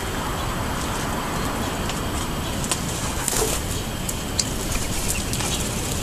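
Steady low outdoor rumble throughout, with a few short, high chirps from small birds scattered through the middle and later part.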